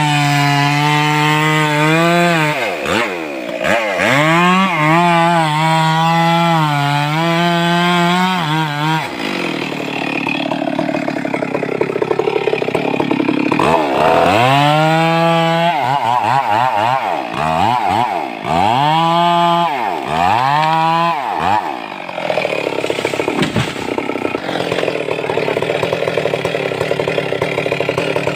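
Stihl MS 382 two-stroke chainsaw running at high revs, cutting wood, with the throttle repeatedly dropped and opened again so the pitch dips and climbs back. For the last several seconds it runs at a lower, rougher note.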